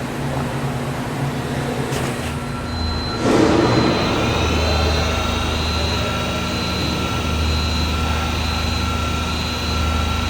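Stepcraft Q408 CNC router running with a steady machine hum. About three seconds in, a motor starts with a burst and spins up. Its whine rises and settles into steady high tones.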